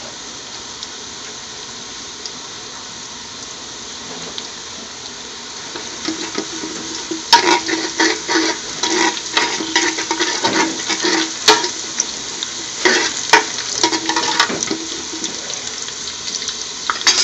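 Sliced garlic sizzling steadily in oil in a metal pot. From about seven seconds in, a spoon stirs it, scraping and knocking against the pot for several seconds before the sizzle carries on alone.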